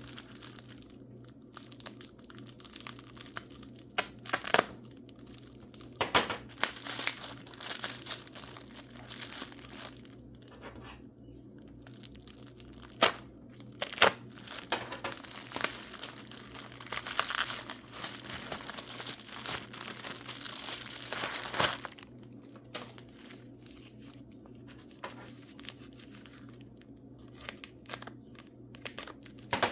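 Packing wrap being torn and crumpled as mineral specimens are unwrapped: irregular crinkling and tearing with several sharp, louder crackles, busiest in the middle and calmer near the end.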